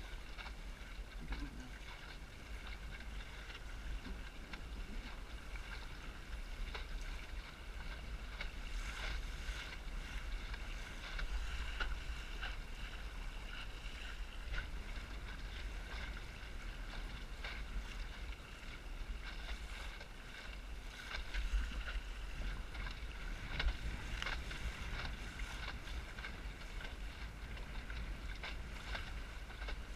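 Strong wind buffeting the microphone aboard a small Snark sailboat under sail, with a steady rush of water and scattered short knocks.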